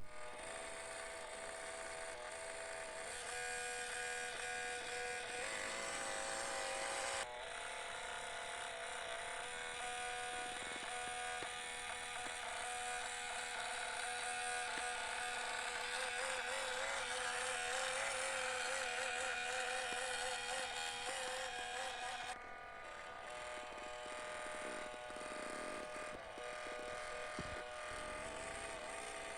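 Electric motor and geared drivetrain of an FMS Chevrolet K10 RC crawler whining steadily as it drives, the pitch wavering slightly with throttle; the sound shifts abruptly twice, about seven seconds in and again past twenty seconds.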